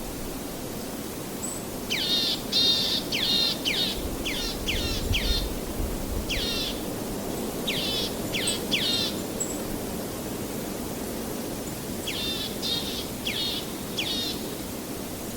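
A songbird calling in quick runs of short, sharply falling chirps, three or four at a time, in several bursts. Under it runs a steady rushing background noise.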